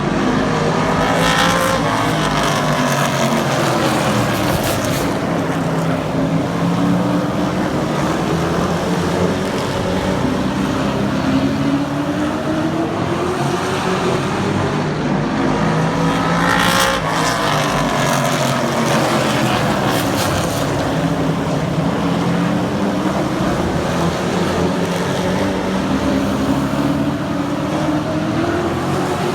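Super trucks racing on a short oval track, several engines running hard with pitch rising and falling as they accelerate and lift. The field sweeps past close twice, about a second in and again about halfway through, roughly a lap apart.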